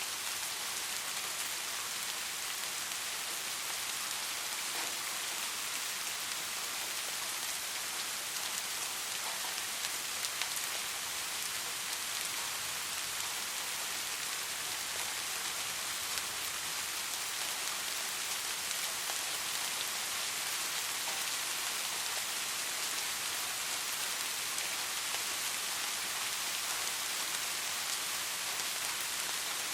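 Steady rain falling on a surface, an even hiss with scattered drop ticks and no thunder.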